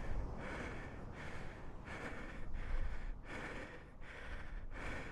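A man panting heavily from exertion, in quick breaths of about one every three quarters of a second, over a low rumble.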